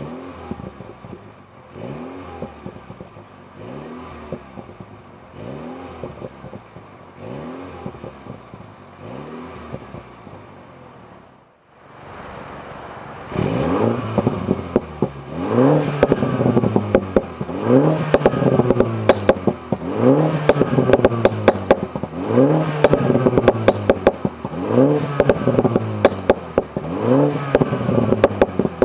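MINI Cooper S F56's B48 2.0-litre turbocharged four-cylinder, breathing through a Stone Exhaust Eddy catalytic downpipe, revved again and again in short blips, each rising in pitch and falling back. About halfway through, after a brief dip, it is much louder, with sharp crackles and pops between the revs.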